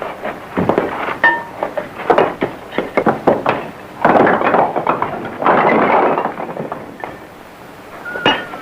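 A quick run of knocks and thuds, with two longer rough crashing noises in the middle and a last sharp knock near the end.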